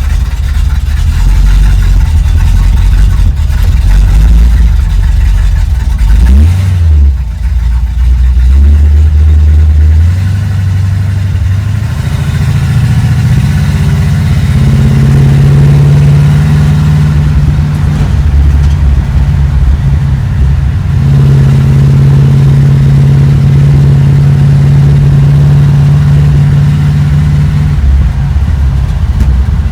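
Chevrolet 350 small-block V8 running, first at a low idle, then raised to a faster steady speed from about ten seconds in, which it holds with a brief dip near the two-thirds mark.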